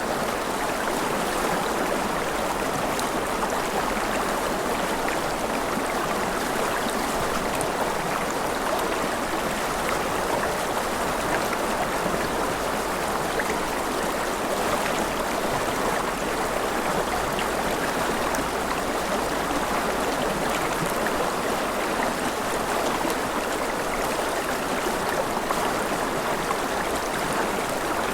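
Steady, even rain noise, a constant hiss of many drops with faint scattered ticks of individual drops, unchanging throughout.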